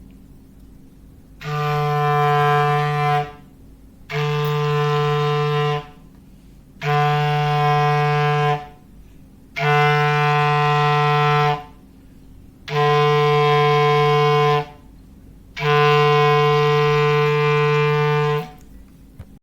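Foghorn sound effect: a low, steady horn tone sounded in six long blasts of about two seconds each, with short gaps between them.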